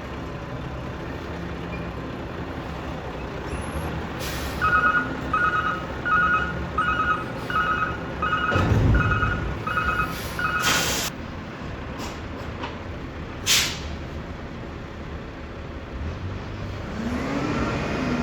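Roll-off dumpster truck running, its reversing alarm beeping about nine times in an even rhythm. Short sharp air-brake hisses follow. Near the end the engine note rises.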